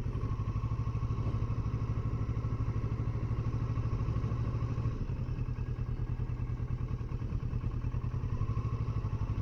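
Kawasaki Versys 650's parallel-twin engine running at steady, even revs as the motorcycle rolls along, with a thin steady whine above the engine note.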